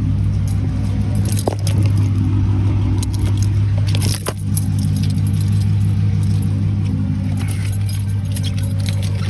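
Car engine running steadily with a low hum as the car is pulled forward, with keys jingling on and off over it.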